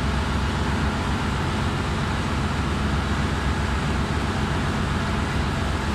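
Steady drone of ship's engine-room machinery running, an even low hum with hiss over it.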